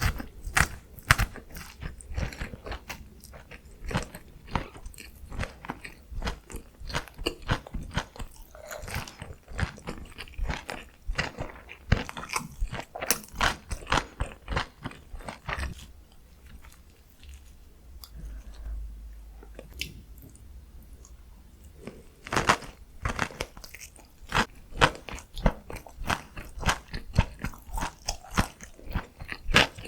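Close-miked eating: a person biting and chewing food with many rapid crunchy, sticky clicks, easing off for a few seconds past the middle before picking up again.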